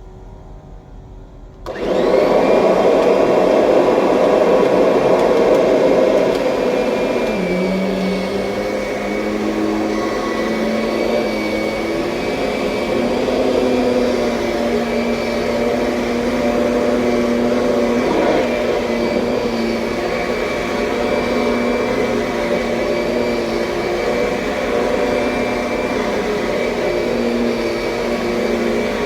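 2007 Kirby Sentria upright vacuum cleaner switched on a couple of seconds in, then running steadily.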